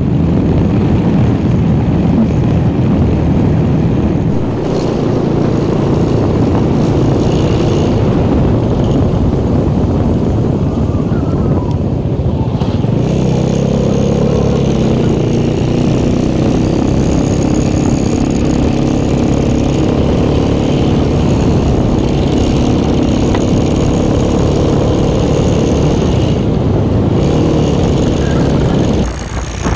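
Motorcycle engine running steadily under way, heard from the rider's position with road and wind noise, dipping in loudness near the end.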